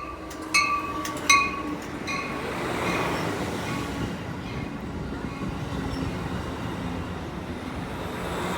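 A train's bell clanging, about one stroke every two-thirds of a second and fading out after about five seconds. Under it, the train's rumble of wheels on rail swells as it rolls in.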